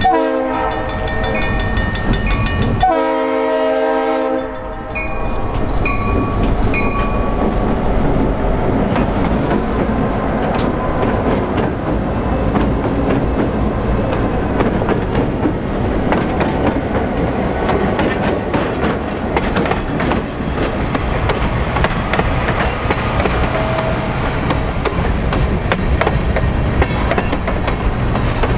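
Locomotive air horn sounding two blasts of a chord, then the train rolling past with a steady rumble of engine and wheels and rapid clicking of wheels over the rail joints.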